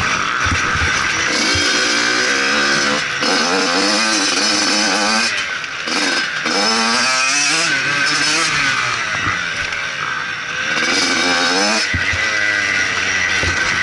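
Motocross bike engine revving hard and easing off again and again, its pitch climbing and falling with each throttle change, over a steady rush of noise. A few low knocks come near the start and again near the end.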